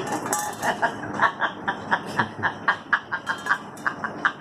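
A quick series of light, sharp clicks, about three to four a second, irregular in spacing.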